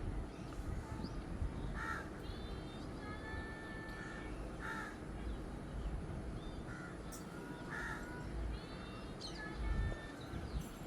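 Crows cawing in short single calls a few seconds apart, with smaller birds chirping and whistling in between over a low steady outdoor rumble.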